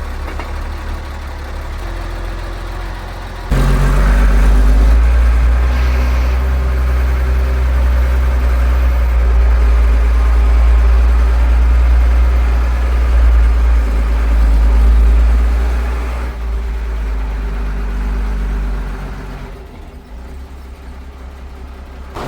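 An engine running steadily with a low rumble. It jumps louder about three and a half seconds in, as if put under load or throttled up, and eases back down near the end.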